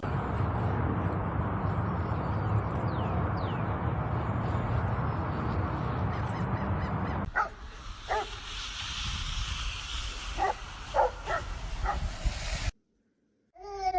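A steady rushing noise for about seven seconds, then a dog giving about six short high-pitched yips and whimpers over the next five seconds.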